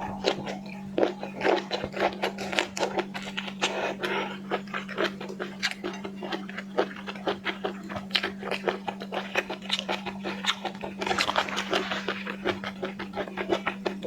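Close-miked eating of seafood: rapid wet smacking, crunching and chewing clicks, over a steady low hum.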